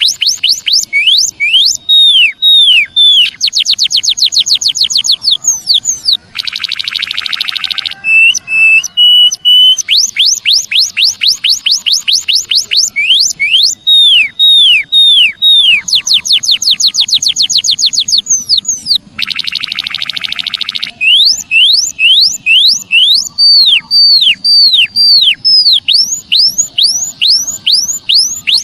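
Recorded song of the emprit kaji (white-headed munia) played as a lure track: loud, rapid series of high down-sweeping whistles and fast trills, broken twice by a buzzy rasping passage, the whole phrase repeating about every 13 seconds.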